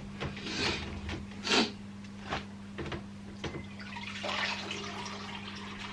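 Water splashing and running out of a washing machine that failed to drain, which the owner puts down to a blocked pump or filter. There are a few sharp splashes or knocks in the first half, then a steadier pour from about four seconds in, over a steady low hum.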